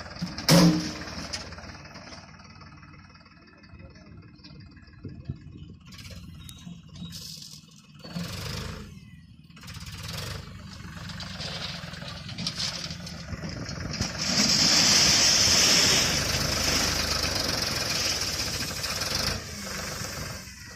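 Tractor engine running, with a sharp loud bang about half a second in and a louder, hissing stretch of noise about two-thirds of the way through.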